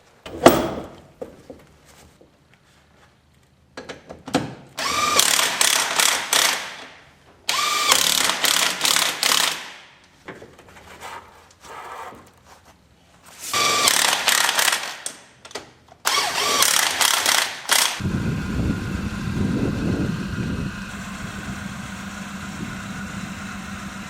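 A sharp clack, then an impact wrench hammering in four bursts of two to three seconds each. About eighteen seconds in this gives way to the mini truck's engine running steadily at idle.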